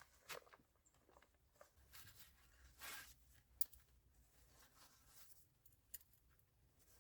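Faint rustling and handling of nylon tent parts during tent setup, with a few sharp clicks, the sharpest about three and a half seconds in.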